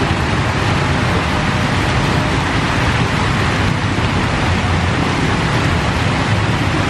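Steady, loud hiss of rain, with no separate events standing out.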